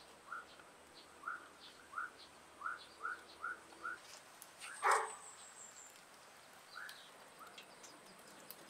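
A bird chirping in short, rising notes, two or three a second, then slowing to a few scattered chirps. One louder, sharper sound comes about five seconds in.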